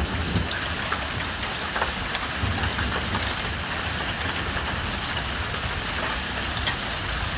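Rain falling steadily in a thunderstorm, an even hiss with a low rumble underneath.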